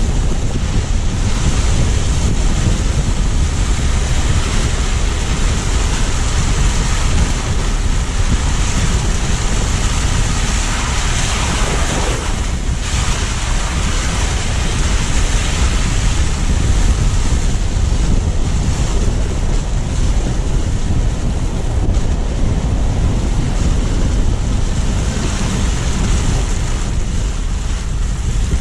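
Steady rush of road noise from a moving car, recorded by a low-mounted GoPro: tyres on the snowy streets and wind buffeting the microphone, with a deep rumble underneath.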